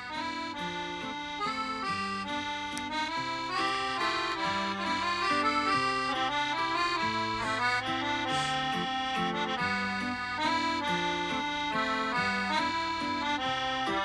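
Accordion music: a melody over a line of short, changing bass notes.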